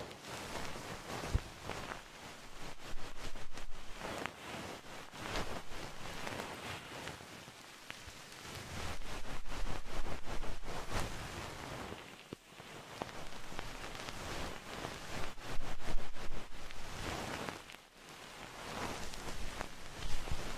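Close-miked ASMR trigger: dense crackling and rustling made of many small clicks, swelling and fading in slow waves.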